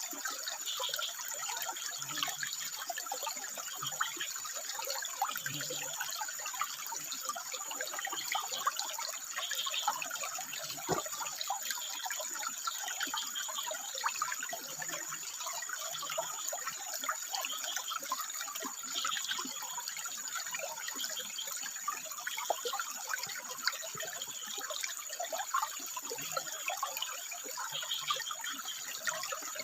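Water trickling and splashing steadily over rock, with frogs calling in short notes every second or two.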